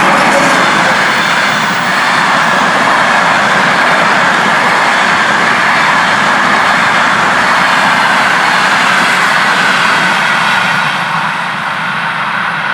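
Passenger train passing close by: a loud, steady rush of wheels on rail with a held high tone running through it, easing a little near the end.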